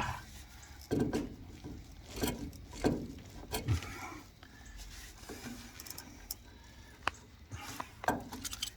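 Irregular knocks, clunks and scrapes as a pipe and fitting are worked by hand, about one every second or so, the sharpest a short click about seven seconds in.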